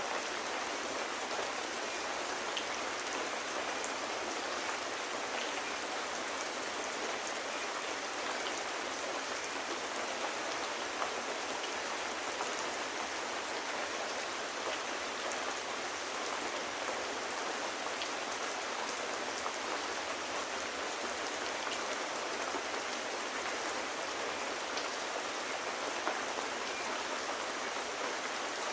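Steady rain: an even hiss with scattered faint ticks of individual drops.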